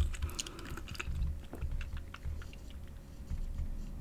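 Close-miked chewing of food, with scattered soft mouth clicks.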